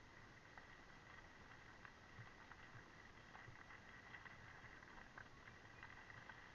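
Near silence: faint hiss with a steady high tone and scattered light ticks.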